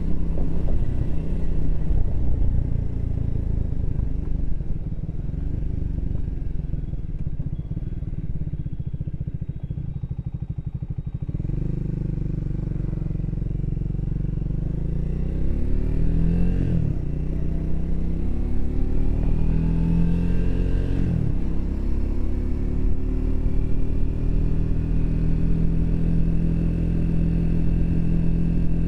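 Triumph Speed 400's single-cylinder engine running low and steady, then, about a third of the way in, accelerating. It revs up through two gear changes and settles into a steady cruise.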